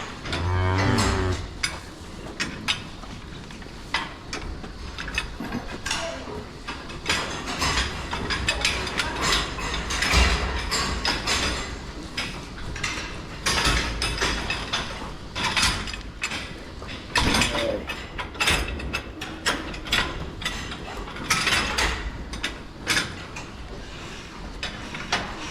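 Metal feed barrier rattling and clanking irregularly as hungry cattle push their heads in to eat.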